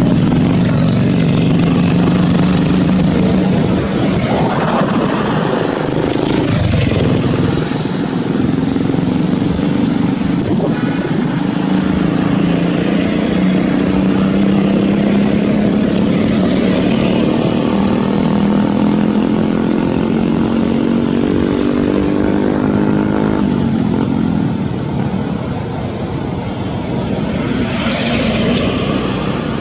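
An engine running steadily, its pitch slowly rising for about ten seconds and then dropping back.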